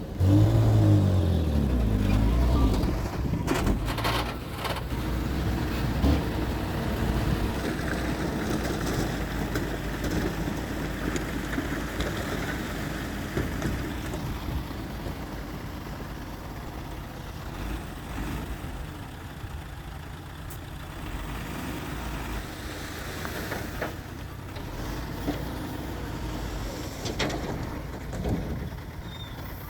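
Heavy diesel engines of earthmoving machinery working: the engine note shifts under load in the first couple of seconds, a few metallic knocks follow, then the engine runs steadily.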